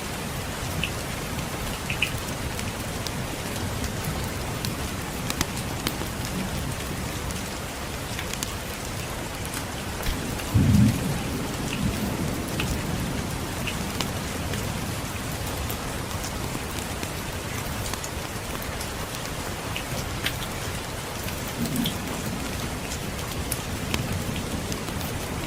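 Steady rain with a low rumble of distant thunder swelling about ten seconds in and a fainter one near the end, over scattered sharp crackles of a wood fire.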